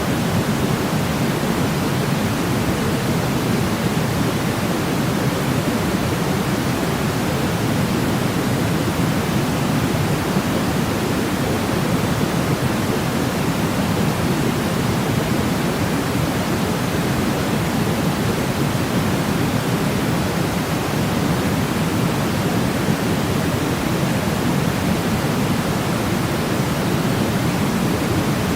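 Steady sleep-aid noise: a constant rushing hiss, heavier in the low end than pure white noise, with no change in level.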